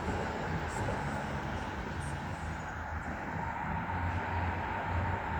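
A motor engine running steadily with a low rumble and a faint high whine.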